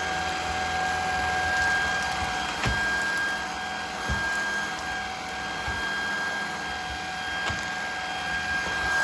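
Shark Vertex cordless stick vacuum running on a hardwood floor, a steady high whine over a rushing hiss, with a few short knocks as it pushes jelly beans along. It fails to suck them up: it cannot pick up jelly beans on hardwood.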